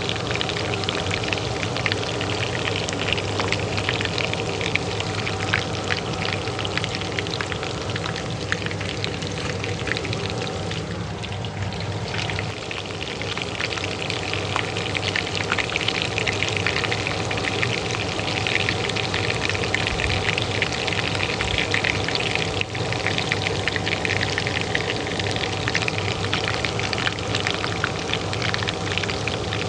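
Oil frying in a pan: a steady, dense sizzle of crackles and pops over the constant hum of a kitchen range hood fan.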